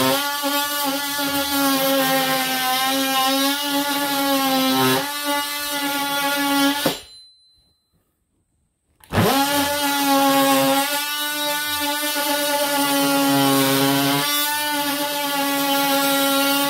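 Power tool, an oscillating multi-tool, cutting a channel in wood with a steady, high motor whine. It stops about seven seconds in and goes quiet for two seconds, then starts again and keeps cutting.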